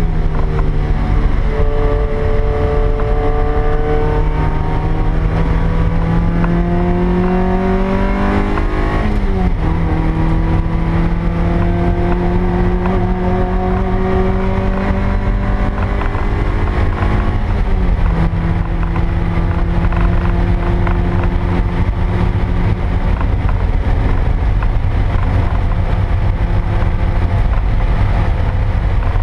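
The stock 1ZZ-FE 1.8-litre four-cylinder engine of a 2000 Toyota MR2 Spyder, heard from inside the cabin, pulling up through the revs under acceleration. The pitch drops sharply at upshifts about nine seconds and seventeen seconds in, then holds at fairly steady revs, over a constant low rumble of road noise.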